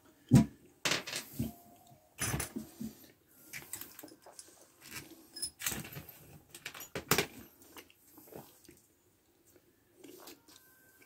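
Irregular clicks, knocks and light metallic clinks of washers, lock nuts and a wrench on a toilet's floor bolts as the toilet is fastened down.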